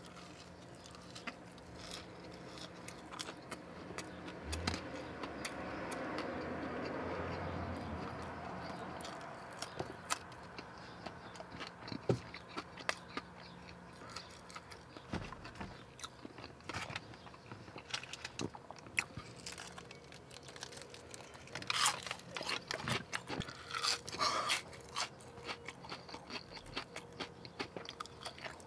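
Close-miked eating: chewing and biting of cheese-covered chili cheese fries and onion rings, with wet mouth clicks and crunches. A denser run of louder crunchy clicks comes near the end.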